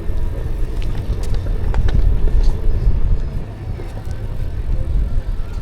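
Ride noise from a moving e-bike: an uneven low rumble of wind buffeting the microphone over tyre and road noise, with a few faint clicks.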